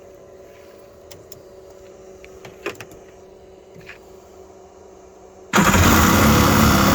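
Yamaha SuperJet 650 two-stroke engine being cold-started: after a faint steady hum and a few small clicks, the starter cranks it loudly and suddenly about five and a half seconds in.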